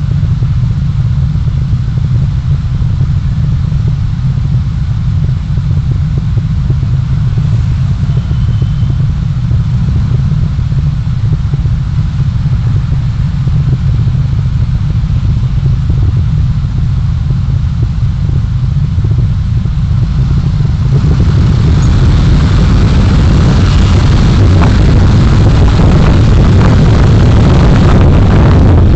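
Road and wind noise of a moving vehicle heard through a dashcam microphone: a steady, heavy low rumble, joined about twenty seconds in by a louder hiss that stays to the end.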